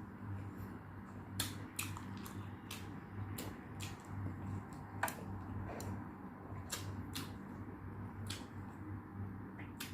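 Close-miked eating sounds: irregular wet mouth clicks and chewing, about one or two clicks a second, over a steady low hum.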